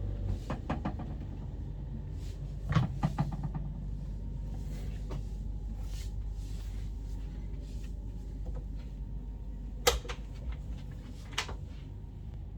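Scattered knocks and clicks, in small clusters, over a steady low hum.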